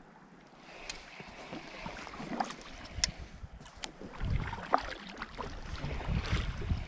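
Water splashing around a kayak, with wind buffeting the microphone in a low rumble that gets heavier about two-thirds of the way through, and a few sharp knocks.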